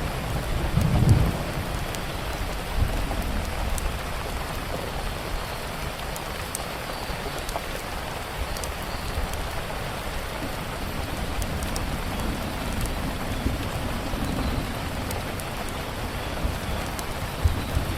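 Steady rain falling, with a low rumble of thunder about a second in and softer rumbling later on. Small sharp crackles of a wood fire are scattered through it.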